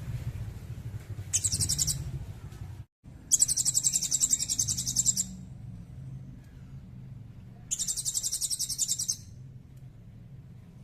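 A small songbird giving three bursts of a fast, very high-pitched trill, the middle one the longest, as on a recorded bird song used for training cage birds to copy it. A low steady hum runs underneath.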